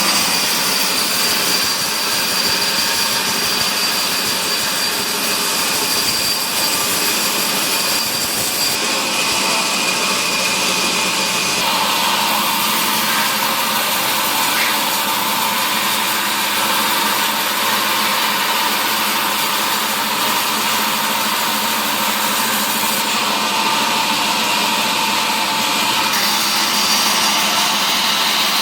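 Woodworking machinery in a timber mill running steadily: a loud, even noise with a high whine, its tone shifting about twelve seconds in and again near the end.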